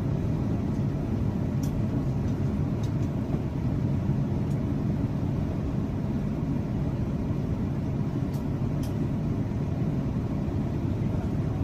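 Airliner cabin noise inside an Airbus A350 on approach: a steady low rumble of engines and airflow, with a few faint ticks.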